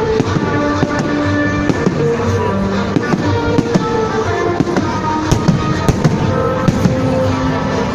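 Fireworks salute going off, with frequent bangs and crackles scattered throughout, over music.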